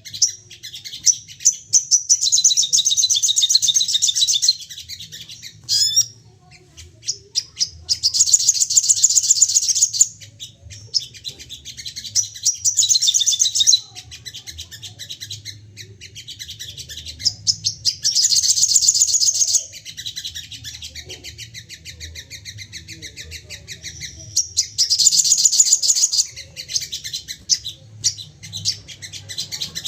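Sogon bird calling in loud, high-pitched bursts of rapid chattering trills, each lasting a couple of seconds and repeated every few seconds, with softer chirps in between. This is the agitated, aggressive 'nembak' calling that keepers use as playback to provoke other sogon birds into singing.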